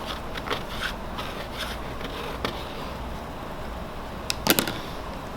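Small knife scraping excess hardened wax off a wood floor: a series of short, light scrapes, then a couple of sharp clicks about four and a half seconds in.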